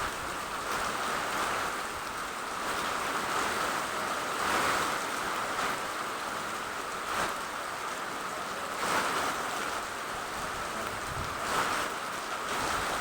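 Steady rain falling, with a rushing noise that swells and eases every couple of seconds like gusts of wind.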